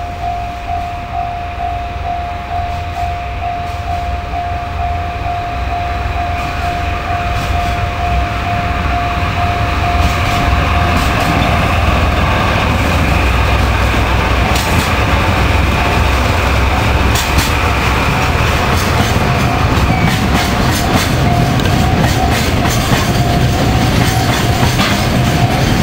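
Japanese level-crossing warning bell ringing in a steady pulsing tone while a freight train approaches and passes. The train's rumble grows louder over the first ten seconds or so and then holds, with wheels clicking over rail joints.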